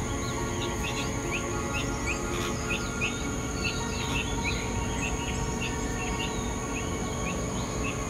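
Bulbul chirping: short falling chirps repeated about twice a second, over a steady high-pitched whine.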